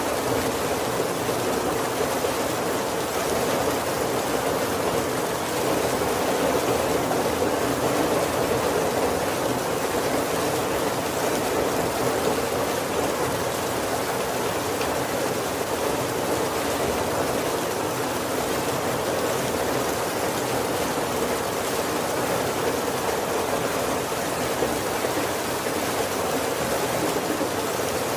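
Heavy rain falling steadily on the roof of a wooden carriage, an even hiss and patter with no thunder.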